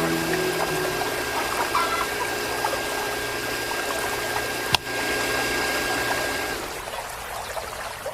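Small electric water pump running with water pouring and splashing, a steady hum under the flow. One sharp click about five seconds in, and the sound drops away near the end.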